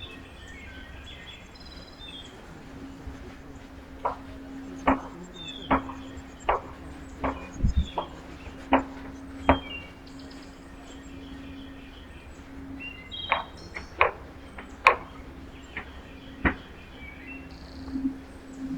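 A few bird chirps, then a run of sharp, irregular knocks or taps, clustered in two bursts with gaps of about half a second to a second, over a steady low hum.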